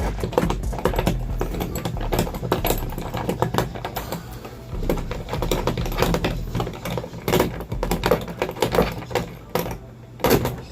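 Irregular clicks and light knocks of clamp hardware and a hard truck bed cover being handled and adjusted, over a steady low hum.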